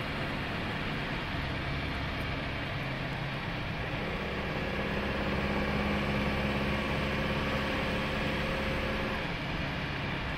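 1932 BSA 10 hp saloon with fluid flywheel and preselector gearbox, its engine and drivetrain running steadily as it drives along, heard from inside the car. About four seconds in, a stronger steady hum comes up and fades again near the end.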